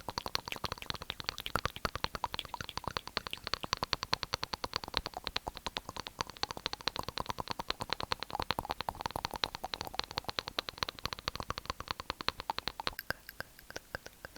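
Wet mouth sounds close to the microphone: a fast, steady run of tongue and lip clicks, several a second, thinning out near the end.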